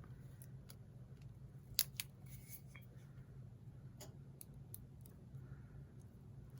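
Heat transfer tape and sublimation paper being handled on a mug: a scattered run of small sharp clicks and snips, the strongest about two seconds in, over a steady low hum.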